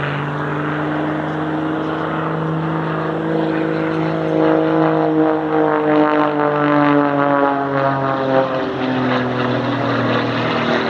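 Propeller aircraft flying past, its engine drone steady, then sliding down in pitch in the second half as it goes by.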